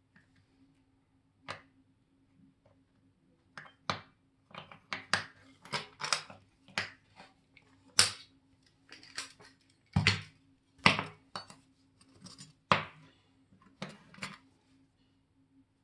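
Small metal watchmaker's tools and watch parts clicking and tapping: about twenty sharp, irregular ticks and clinks, loudest in the middle.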